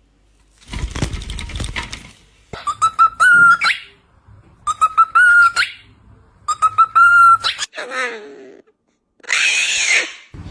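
Small parrots calling: three similar calls, each a rapid string of clicks running into a whistle that shoots up in pitch at the end, then a shorter falling call and a last shrill call near the end.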